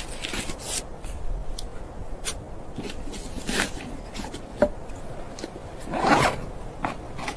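Irregular rubbing and scraping strokes, with a few sharp clicks and knocks.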